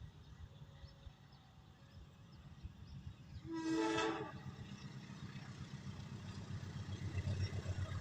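A train's horn sounds one short blast about halfway through, over the low rumble of a train that grows louder toward the end, as it approaches.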